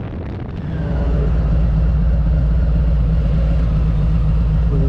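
Harley-Davidson motorcycle engine running steadily, its low hum growing louder about a second in and then holding level.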